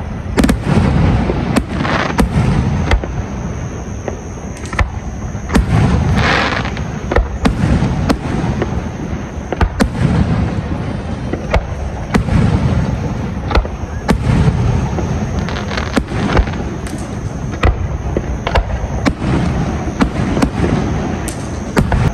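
Aerial fireworks display: a continuous run of sharp bangs and deeper booms, about one a second or faster, with no let-up.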